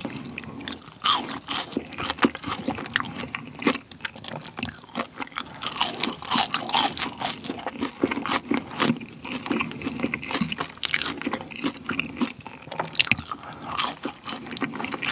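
Close-miked chewing of ketchup-dipped french fries: a dense run of crisp crunches.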